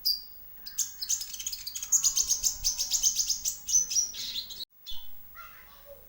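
Kolibri ninja (konin) sunbird song: a short high note, then a fast, high-pitched twittering run of chirps lasting a few seconds, cut by a brief gap, then a few softer notes.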